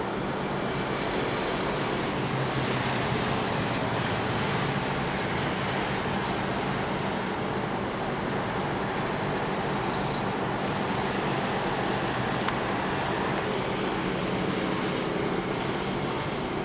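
Steady road noise of a moving vehicle, an even drone that holds without change.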